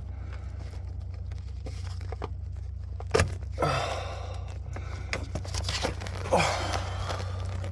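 Handling noises: a sharp click about three seconds in, then two short bouts of rustling and scraping, over a steady low hum.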